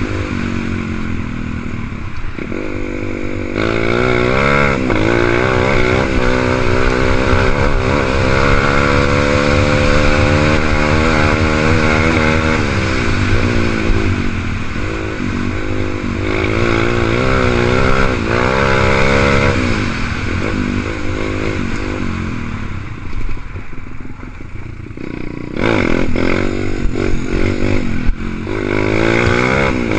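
A 125 cc dirt bike engine being ridden hard. Its pitch climbs and drops again and again as the rider accelerates and shifts. It eases off to a lower, quieter note a little past twenty seconds in, then revs up again near the end.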